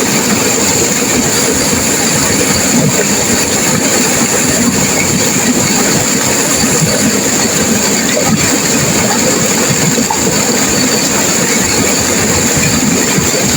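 Turbulent river water rushing and crashing, a loud, steady wash of noise with no breaks.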